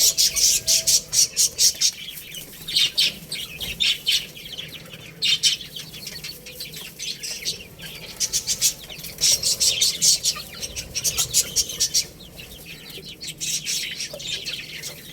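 Chicks and hens: bursts of rapid, high-pitched chirping with some clucking, coming in clusters a second or two long with short lulls between.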